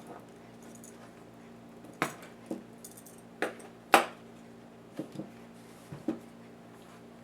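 Small hard clicks and clinks of laptop parts, screws and tools being handled and set down during disassembly, about eight in a loose run, the loudest about four seconds in, over a steady low hum.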